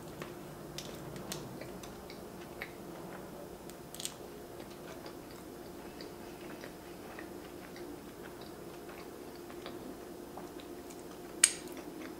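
Close-up mouth sounds of a person biting into a donut and chewing it, with many small wet clicks. There is one much louder sharp click near the end.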